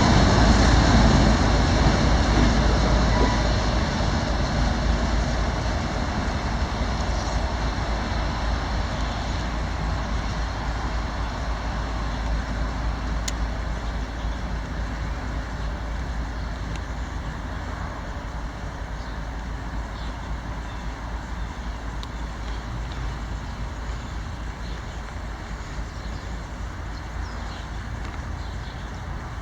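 Freight train rolling past with a steady rumble that fades over the whole stretch as the train moves away.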